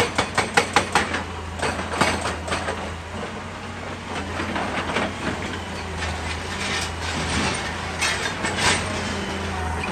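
Excavator's diesel engine running steadily, with a quick run of rattling clanks in the first second or so and single metallic knocks now and then after.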